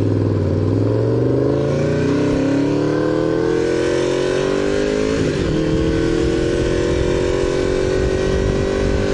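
Honda VFR750's V4 engine pulling under acceleration, its pitch climbing steadily, then dropping as the rider shifts up about five seconds in and climbing slowly again. Wind and road rumble sound under it on the helmet microphone.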